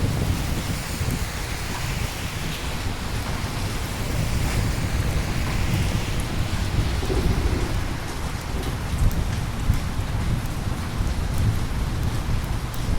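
Steady rain with a low, continuous rumble of thunder underneath and scattered drop ticks.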